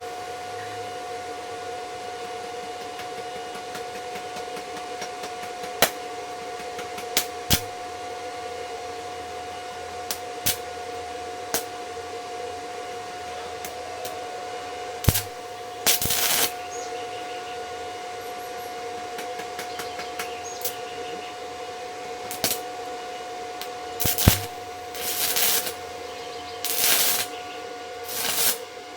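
Stick welding with a 7018 electrode on a steel motorcycle frame: a steady arc hiss over a steady hum. Scattered sharp clicks run through it, and there are a few short, louder bursts of hiss, several of them near the end.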